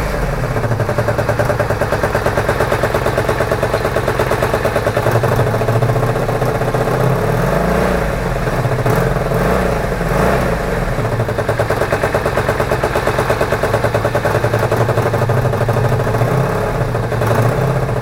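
Honda VF1000F2 Bol d'Or's V4 engine running at idle on its first run after an engine transplant, with several short throttle blips that briefly raise the revs.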